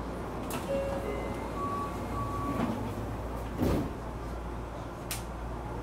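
Tokyu 9000 series electric train heard from inside the car while running: a steady low rumble of motors and wheels on the rails, with a few sharp clicks and knocks, the loudest about two-thirds of the way through, and brief faint whines.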